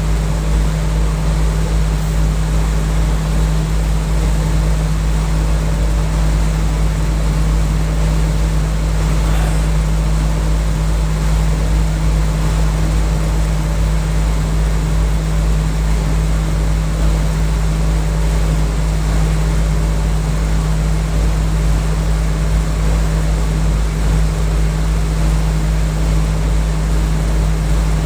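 Package air-conditioner unit running with a steady, loud low hum and an even machine drone, unchanged throughout.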